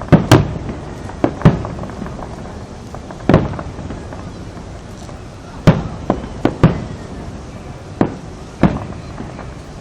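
Fireworks going off: about a dozen sharp bangs at irregular intervals, several in quick pairs, each with a short rumbling tail.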